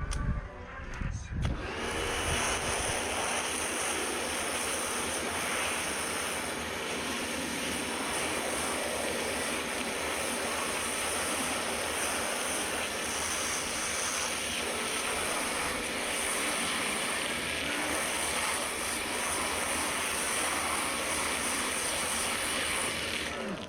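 High-pressure washer lance spraying water in a steady hiss. It starts about a second and a half in and cuts off suddenly near the end, as the trigger is released.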